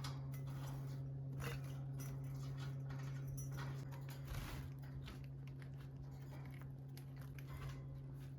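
Fischer's lovebirds bathing in a water dish: faint splashing and pattering with scattered small clicks, over a steady low hum.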